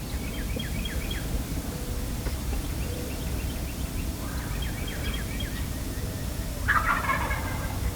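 Wild turkeys calling softly, short high notes in a few quick runs, with a denser stretch of calling near the end.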